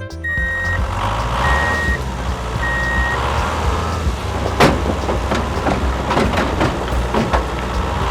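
Reversing beeper sounding three steady beeps over a continuous low engine-like rumble. A sharp knock comes about four and a half seconds in, followed by several smaller clicks.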